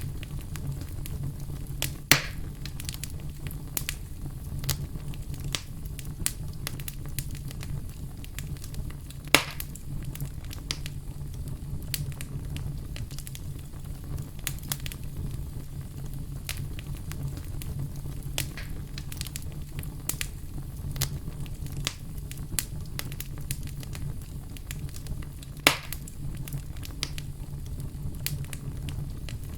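Wood fire crackling steadily over a low rumble, with many small pops and three louder sharp pops spread through it.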